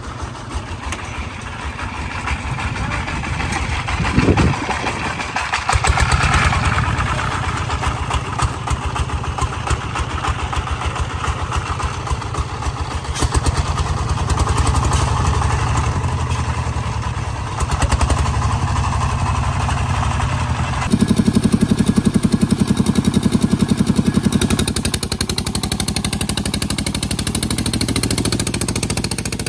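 Walking tractor's diesel engine running with a fast, even chugging, its sound changing abruptly about two-thirds of the way through.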